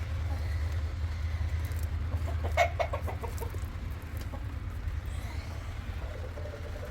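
Domestic hen clucking, a short quick run of clucks about two and a half seconds in, over a steady low rumble.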